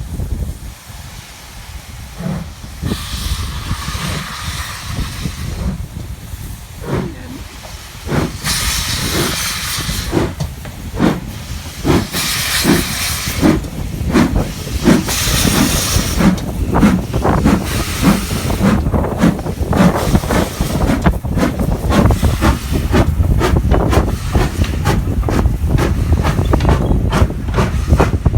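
Steam locomotive pulling away: exhaust chuffs that speed up to about two a second, with long bursts of steam hissing in the first half.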